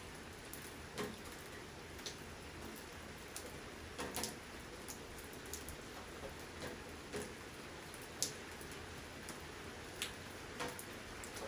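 Steady rain falling, with heavy drops striking a surface at irregular intervals, one sharper drip standing out about eight seconds in.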